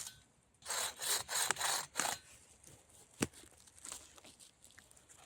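Hand saw cutting firewood in four quick back-and-forth strokes that stop about two seconds in. A single sharp knock follows about a second later.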